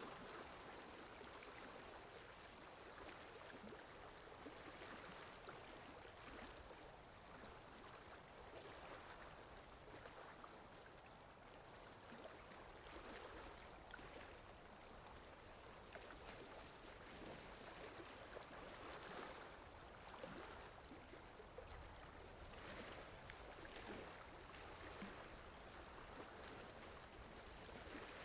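Quiet, steady rain: an even hiss of many small drops, swelling and easing a little.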